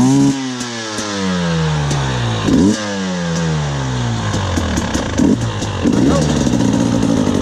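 2019 KTM 300 XC-W two-stroke dirt bike engine being ridden, revving up in quick throttle bursts with the note falling away slowly after each, about four times; steadier running near the end.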